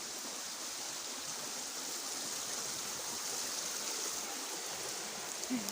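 Stream water running steadily, full with rainy-season water: an even rushing hiss.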